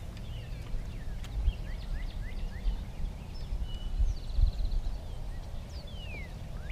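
Birds calling outdoors: many short, quick chirps, a fast trill about four seconds in and a falling whistle near the end, over a low rumble of wind on the microphone.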